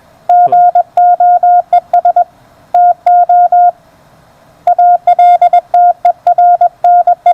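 Morse code (CW) from an amateur station on the 30-metre band, received on a homebuilt WBR regenerative receiver: a loud, steady, mid-pitched beep keyed on and off in dots and dashes, with a pause of about a second in the middle.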